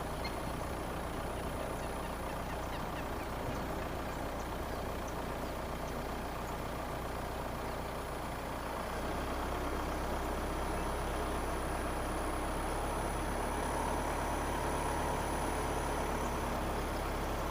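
Car driving slowly, a steady low rumble of engine and tyres on the road, getting slightly louder about halfway through.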